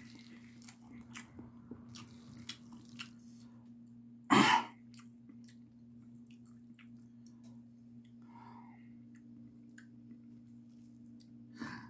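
A person chewing a mouthful of cold spicy noodles, with small soft mouth clicks and one short loud burst of noise about four seconds in, over the steady low hum of a mini electric fan.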